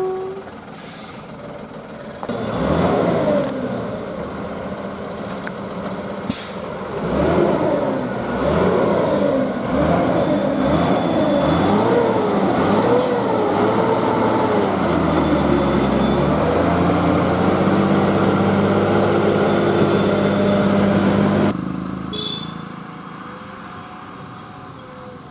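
Eicher lorry's diesel engine running under load, its pitch rising and falling again and again, then holding a steady note before cutting off suddenly near the end.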